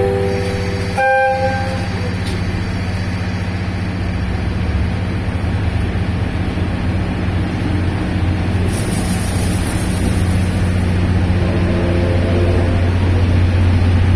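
A short horn toot about a second in, then the steady low hum of a train moving off, growing slightly louder toward the end.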